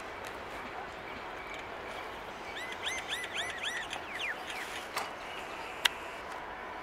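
Steady noise of a departing passenger train, with a bird calling a quick run of high chirps about two and a half seconds in. A single sharp click near the end.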